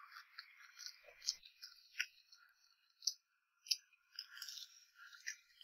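Faint chewing of a crispy pan-fried chive pie, with several sharp crunches of the crust between softer crackling bites.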